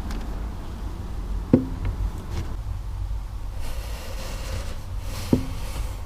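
Vauxhall Insignia 2.0 CDTI four-cylinder diesel idling, with two sharp knocks about four seconds apart, each with a short low ring after it. The knock comes right at the end of the clutch release.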